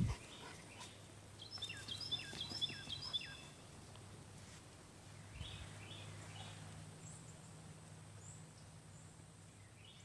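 A songbird singing a fast phrase repeated about five times, high whistled notes that each drop at the end. This is followed by a few shorter falling call notes about halfway through and again near the end, over a faint low hum. A short knock at the very start is the loudest sound.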